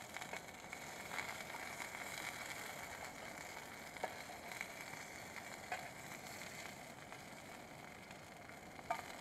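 Wood campfire burning: a steady faint hiss with sparse, irregular crackles and pops.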